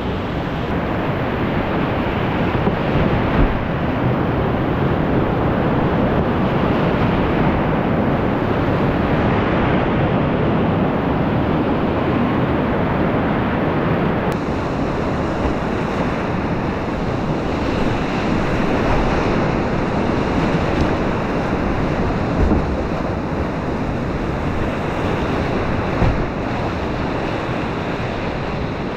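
Whitewater rapids rushing steadily and loudly around a kayak, with a few brief thumps along the way.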